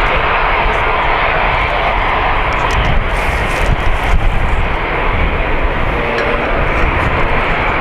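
Jet airliner engines running, a steady loud rushing noise, with a stronger uneven low rumble about three to four seconds in.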